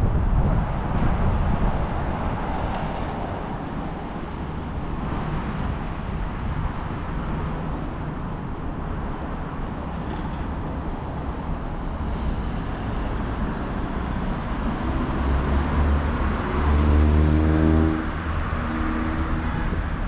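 City street traffic: a steady wash of cars passing on the roadway, with a heavier vehicle's engine running louder and nearer about three-quarters of the way through.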